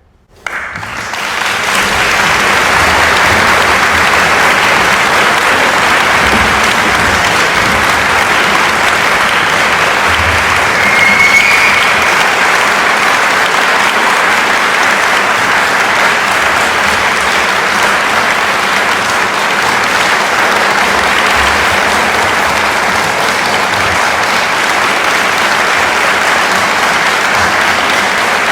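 Concert audience applauding after a piece ends, the clapping swelling within the first couple of seconds and then holding steady and loud.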